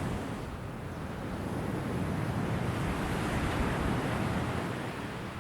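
Ocean waves washing onto a shore, a steady surf rush that swells and eases slightly.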